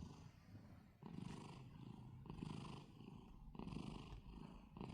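Domestic cat purring hard while being brushed, a faint purr that swells and fades with each breath, a little over once a second.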